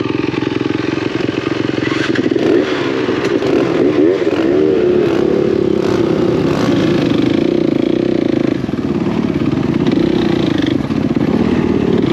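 Dirt bike engine running under throttle, its pitch rising and falling as the rider works the throttle, with a few knocks from the bike over the ground.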